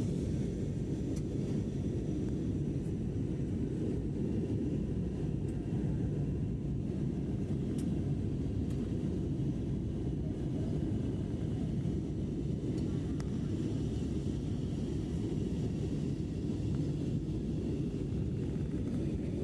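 Steady low drone of an airplane in flight heard from inside the passenger cabin: engine and airflow noise, even and unchanging.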